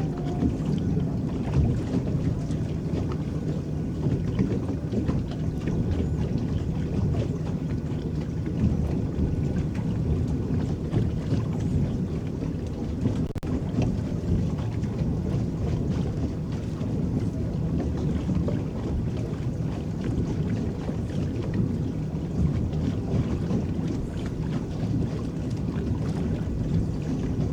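Water churning and lapping around an electric boat under way, driven by its paddles: a steady low wash with small irregular splashes throughout.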